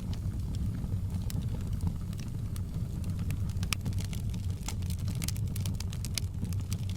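Wood fire crackling: irregular sharp pops and snaps over a steady low rumble of the burning fire, with a thicker run of crackles a little past the middle.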